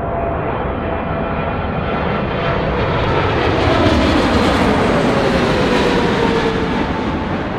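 A jet airliner's engines passing close by. The sound swells to its loudest about four seconds in, and the engine tones slide down in pitch as the aircraft goes past, then fade.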